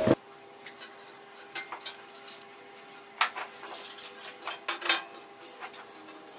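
Light metallic clinks and taps of metal pieces or tools being handled, scattered and irregular, the loudest a little past three seconds and near five seconds, over a faint steady hum. A louder noise with a steady tone cuts off abruptly at the very start.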